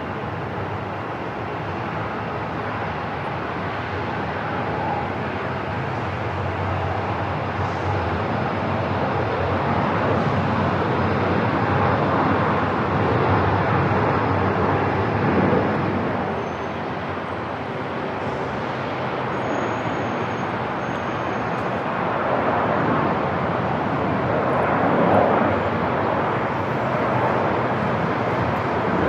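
Airport ambience: a steady rush of distant jet aircraft noise that swells and fades a few times.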